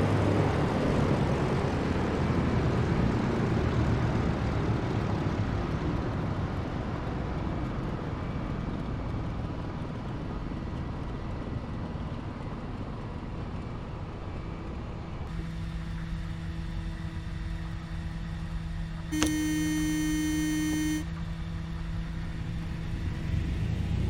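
Steady rushing drone of a DC-3's engines and propellers in flight, easing off gradually through the first half. A quieter steady hum follows, and about two-thirds of the way in a buzzy beep-like tone sounds for about two seconds.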